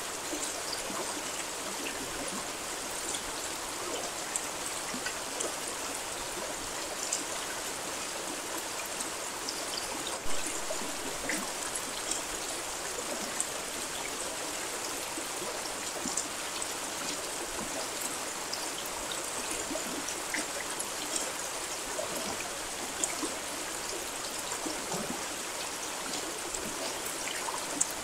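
Steady rain: an even hiss of falling water with scattered sharper drop hits, one louder than the rest about ten seconds in.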